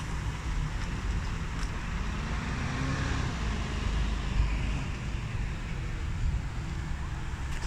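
Road traffic: a steady rumble of vehicle engines and tyre noise, with an engine's pitch rising briefly a few seconds in.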